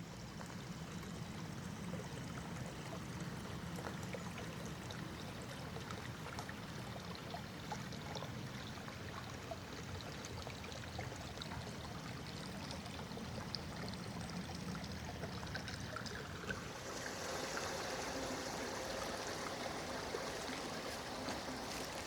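Small stream running steadily, with a rushing noise that grows louder and brighter about three quarters of the way through.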